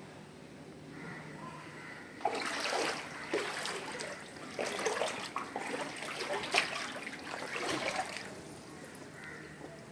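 Water splashing and sloshing in irregular bursts, starting about two seconds in and dying away near the end.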